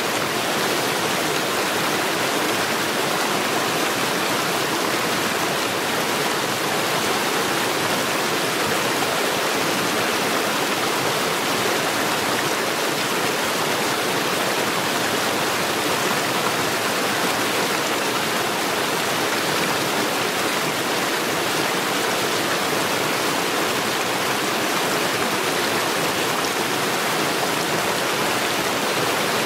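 Stream water rushing over stones, a steady, even rush with no breaks.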